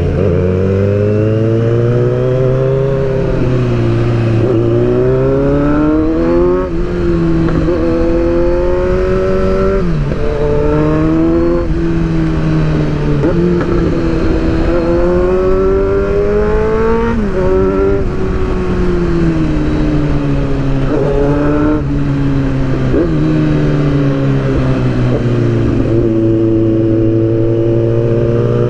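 Inline-four sport motorcycle engine repeatedly revving up and easing off, its pitch climbing and falling with short breaks at each gear change, over a constant rush of wind on the microphone.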